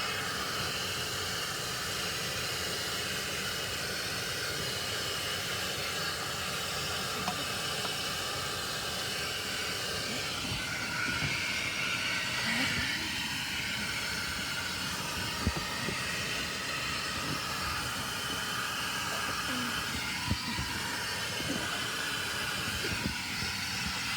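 A steady hissing rush, with a few faint knocks.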